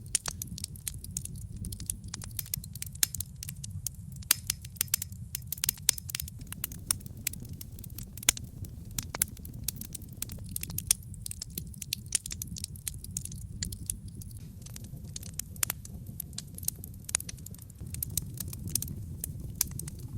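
Wood fire of logs burning in a fireplace: dense, irregular crackling and popping over a steady low rumble of the flames.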